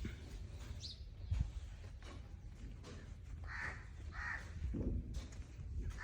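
Two harsh, caw-like bird calls a little past halfway, over a steady low rumble, with a short thump about a second and a half in.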